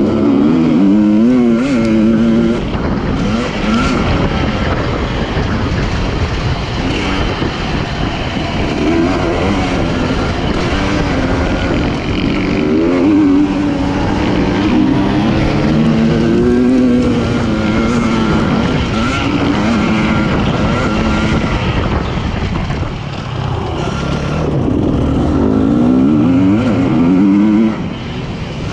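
Husqvarna TE300i two-stroke single-cylinder dirt bike engine revving hard and falling back again and again as it is ridden around a motocross track, the pitch climbing through each gear and dropping on the shifts and off the throttle.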